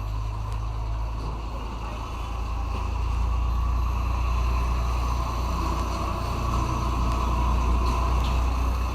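A steady low hum with a rumbling, engine-like noise over it, growing slightly louder about halfway through.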